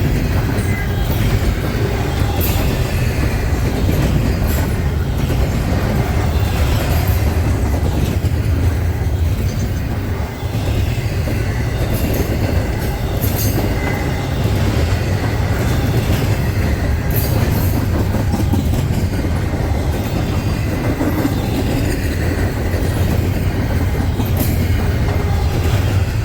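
Freight train cars rolling past: a steady, loud rumble, with sharp wheel clicks every few seconds.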